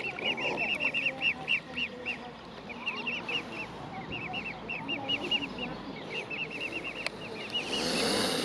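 Mute swan cygnets peeping: many short, high calls repeated several times a second. A brief rush of noise rises near the end.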